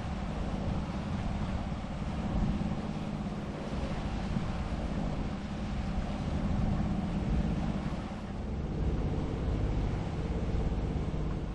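Boat under way on open water: wind buffeting the microphone and water washing along the hull, over a steady low hum.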